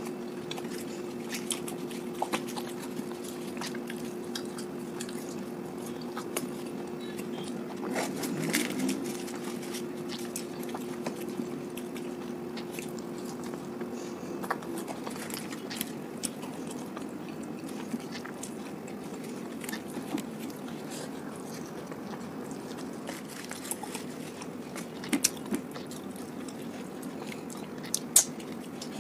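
Close-miked chewing and biting of puffed fried luchi and potato curry, with wet mouth sounds and scattered soft crunches and clicks. A steady low hum runs underneath and stops about halfway through.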